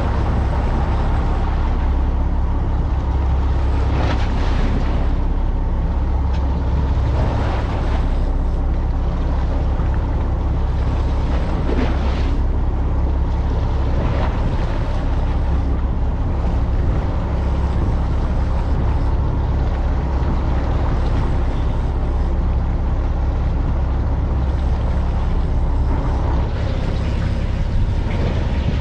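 Fishing boat's engine running steadily: a deep, unbroken hum under a rush of water and wind noise, with a few brief louder swells.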